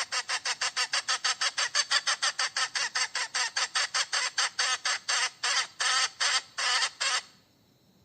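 A hen cackling in a rapid, even run of short calls, about six a second, that slow and space out near the end and stop about seven seconds in.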